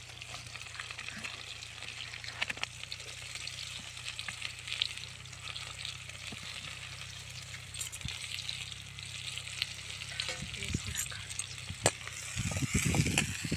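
Fresh curry leaves and chopped onion frying in hot oil in an aluminium kadai over a wood fire: a steady sizzle with scattered crackles and pops. Near the end a spoon goes into the pan and stirs, with some louder scraping knocks.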